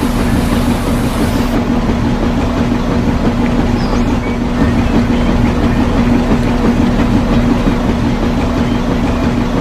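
A small motor running steadily with a constant hum and a dense rattling noise, like a toy tractor's geared motor.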